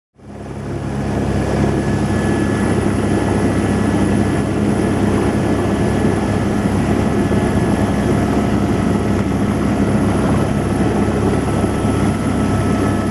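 Helicopter in flight: loud, steady rotor and engine noise with a thin high whine, fading in over the first second or so.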